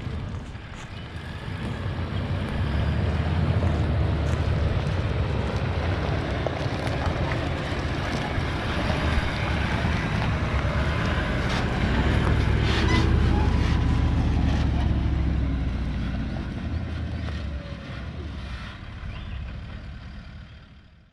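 Wind buffeting the microphone: a low rumble that rises and falls in gusts, swelling twice and dying away near the end, with a few faint clicks.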